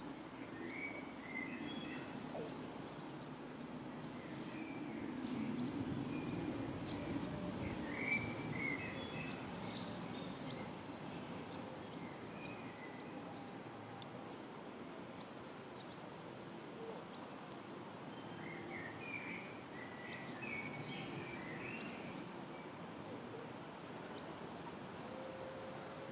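Birds chirping in short scattered calls, clustered in a few spells, over a low steady background noise that is stronger in the first ten seconds.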